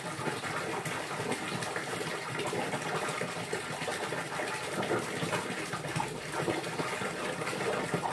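Running water gushing and splashing steadily, like a tap or small fountain pouring.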